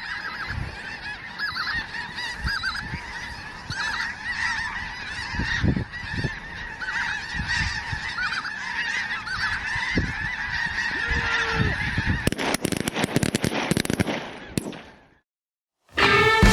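A large flock of wild geese calling and honking over one another in a dense, overlapping chorus. About twelve seconds in, a run of sharp clicks or rustles comes in, and the sound then fades out to a second of silence.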